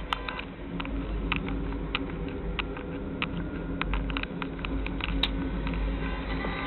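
Steady vehicle hum heard from inside a car, with light sharp clicks repeating roughly every half second to second.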